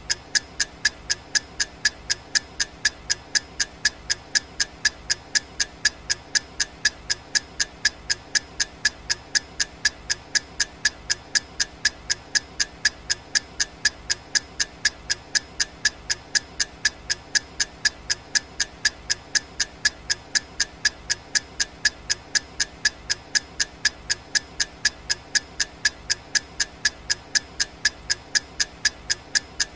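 Clock-style ticking sound effect of a countdown timer: sharp, evenly spaced ticks, a few a second, keeping a steady rhythm.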